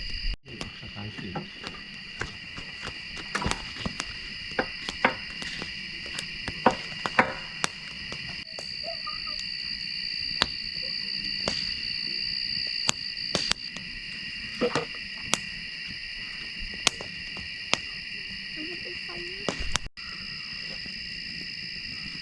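Steady, high-pitched chorus of crickets, with many sharp clicks and cracks from a crackling wood fire scattered through it.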